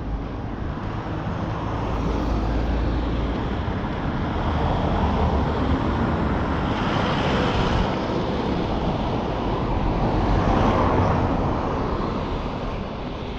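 Road traffic passing, with vehicles swelling louder twice, in the middle and again near the end, over a steady low rumble.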